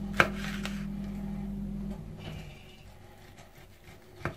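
Kitchen knife slicing through a rolled raw lamb between bamboo skewers, with one sharp tap of the blade on the wooden cutting board just after the start and a few light knocks near the end. A low steady hum stops about halfway through.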